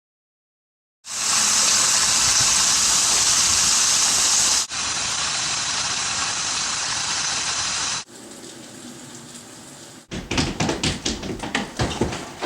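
Heavy rain, a steady hiss that changes level abruptly twice, then a quick, irregular run of sharp knocks near the end.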